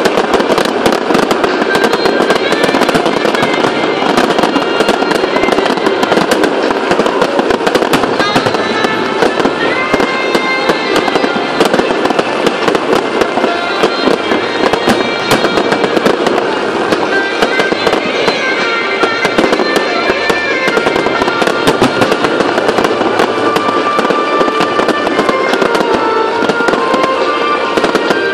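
Large fireworks display: a continuous, rapid barrage of bangs and crackle from aerial shells bursting. Music plays along with it.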